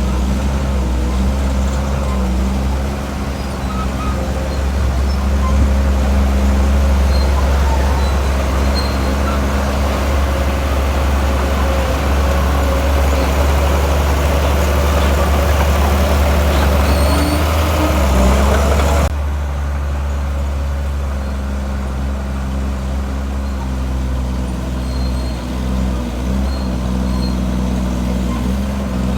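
Heavy diesel construction machinery running steadily, louder and rougher in the first two-thirds, then cutting abruptly to a quieter, steadier engine sound about two-thirds of the way through.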